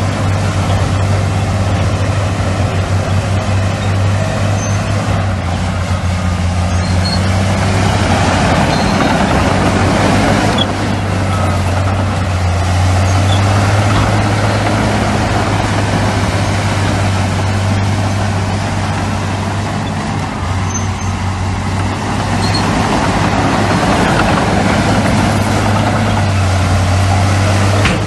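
Heavy diesel engine of earthmoving machinery running steadily with a deep drone and mechanical noise.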